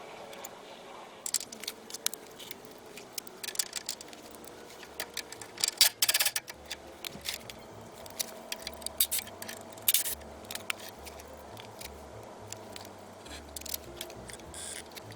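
Metal tools and parts clinking and tapping now and then, an irregular string of short sharp clicks with a busier cluster about six seconds in and another around ten seconds.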